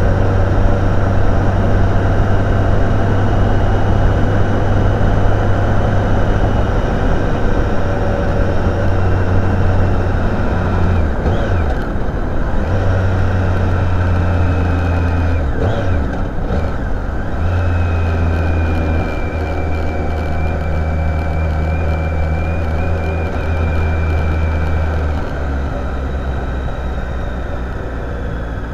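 Motorcycle engine running steadily under way, with wind and road noise. The engine note changes briefly twice, about eleven and sixteen seconds in.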